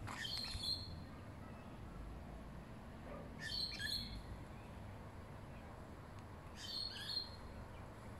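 Birds chirping in three short bursts about three seconds apart, over a steady low rumble of outdoor background noise.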